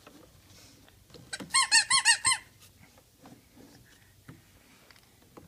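Toy car horn squeaked about six times in quick succession, each squeak a short, high tone that rises and falls, about a second and a half in.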